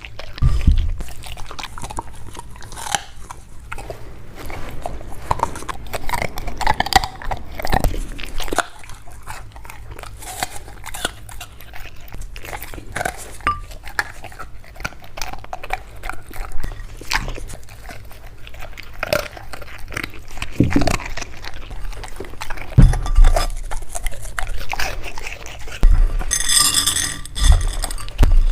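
A dog chewing and crunching food close to the microphone, with irregular bites and crunches and some heavier thumps.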